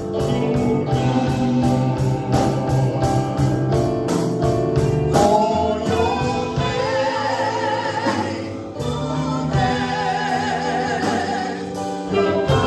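Live gospel praise band with singers: sustained vocal lines with vibrato over keyboards and bass, and a steady percussion beat.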